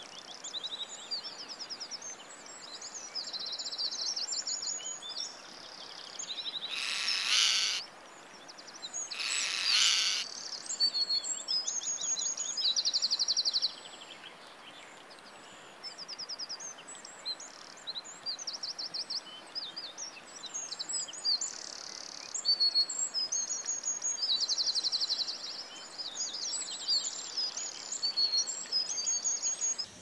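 A chorus of wild birds chirping and singing high-pitched, rapid trills over a low hiss of ambient noise, with two loud, harsh screeches about 7 and 10 seconds in.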